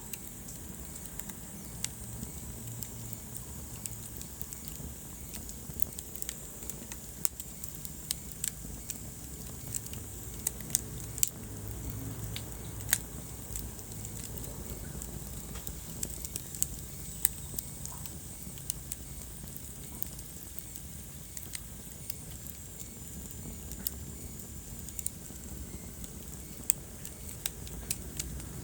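Wood fire burning in a fireplace, crackling with irregular sharp pops over a low, steady rumble of flames.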